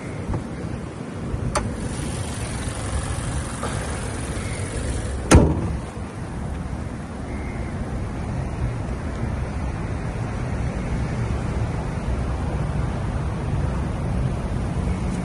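Steady low rumble of a car, building slightly, with a few faint clicks and one sharp thump about five seconds in that is the loudest sound.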